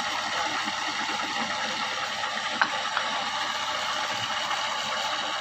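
Power drill running steadily as it bores into wood, with two light knocks near the middle.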